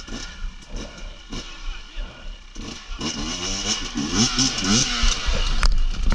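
Off-road motorcycle engine running with scattered knocks and clatter, then revving up and down in repeated bursts from about three seconds in as it is worked over rough ground, with a hiss alongside the revs and a sharp click near the end.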